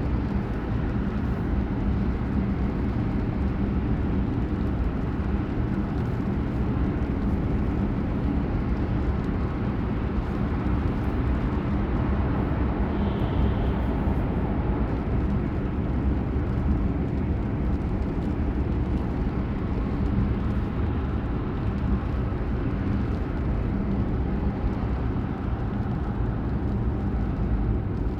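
Steady engine and road noise of a car driving, heard inside the cabin.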